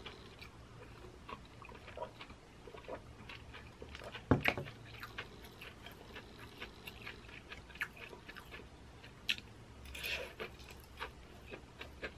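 Quiet chewing and small mouth clicks of someone eating corn cheese, sweet corn kernels under melted mozzarella, with a sharper single click about four seconds in.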